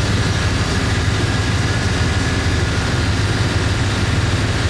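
Chevrolet 5.7-litre (350) small-block V8 with throttle body injection idling steadily, not yet fully warmed up.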